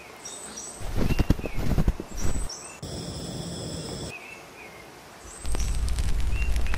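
Small birds giving short chirps again and again over an outdoor background, with a run of crunching thumps early on and a brief steady high sound in the middle. About halfway through a steady low rumble with crackling sets in and becomes the loudest sound.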